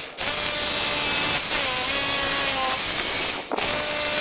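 Milwaukee hammer drill drilling into concrete, running with a steady whine whose pitch dips now and then. It stops briefly about three and a half seconds in, then starts again.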